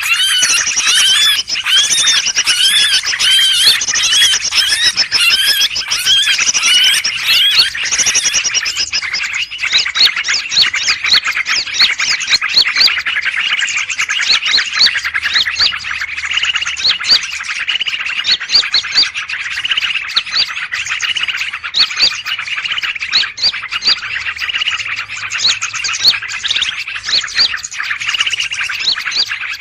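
A dense, noisy chorus of many small birds chirping and calling at once: a 'burung ribut' (noisy birds) bird-trapping lure recording, used to draw in greater green leafbirds. Repeated arching notes at first give way about nine seconds in to a thicker run of rapid chirps.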